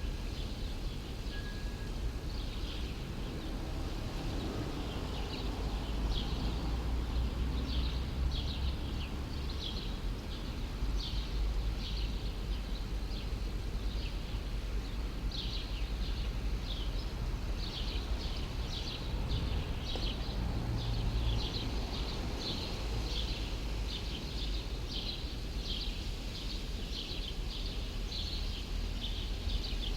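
Birds chirping in quick, repeated short high calls, several a second, with a steady low city rumble underneath.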